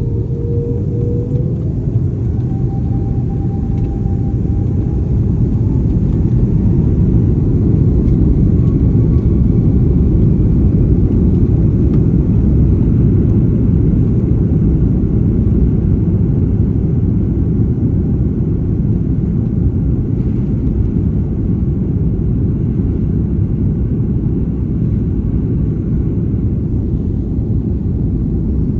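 Airliner cabin during takeoff: a loud, steady deep rumble from the jet engines at takeoff power and the aircraft's roll and climb, swelling a little over the first several seconds, with a faint rising engine whine near the start.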